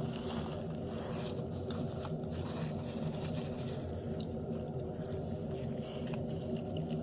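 A person chewing and biting food, with small scattered mouth clicks over a steady low hum.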